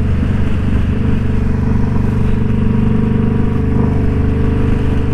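Indian Scout Bobber's V-twin engine running at a steady highway cruising speed, with an even, unchanging drone.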